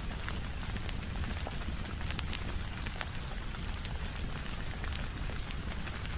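Steady rain tapping on a window, a constant hiss over a low rumble, with many scattered sharp ticks and pops.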